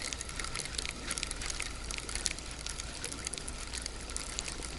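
Light, irregular splashing and ticking of water, as a small fish is drawn in to the bank.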